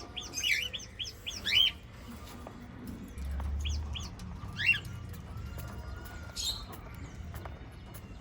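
Small pet parrots chirping in short, quick calls: a busy run in the first two seconds and a few more around the middle, over a low steady hum.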